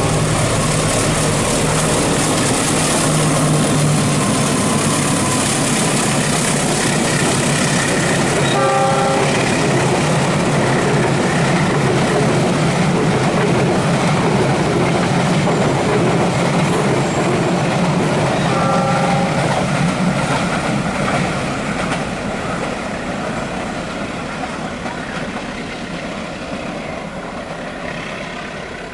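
Train running past on the rails, loud, with two short pitched blasts at about 9 s and 19 s in. The noise fades away over the last several seconds as the train recedes.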